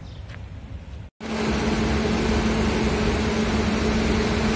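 Freight train at the platform: a steady machine hum with a constant low tone over a rushing noise, starting abruptly about a second in after a brief gap.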